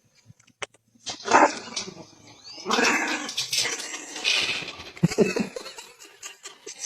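A dog making a string of loud, uneven barks and growly noises, starting about a second in.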